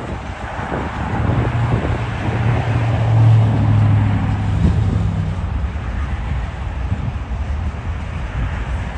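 Freight train cars rolling past on the rails, with road traffic passing in front; a passing road vehicle swells to the loudest point around three to four seconds in, then fades back into the steady rumble of the train.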